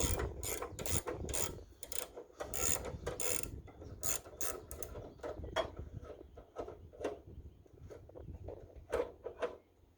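Irregular metallic clicking, ratcheting and scraping from hands and tools working on a Wood-Mizer LX25 band sawmill as the blade change begins, busiest in the first few seconds and thinning out after.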